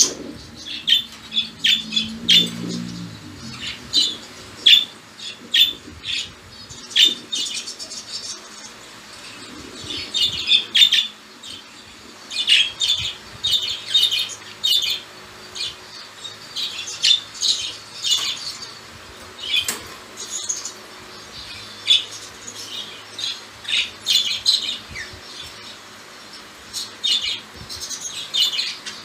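Budgerigars chirping and chattering in many short, high, irregular calls with brief pauses.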